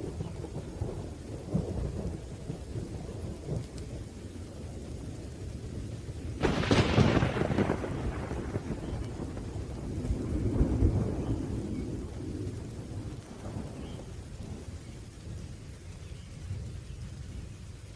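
Thunderstorm with steady rain and rolling thunder. A sharp, loud thunderclap breaks about six and a half seconds in, and a second, deeper roll of thunder swells a few seconds later.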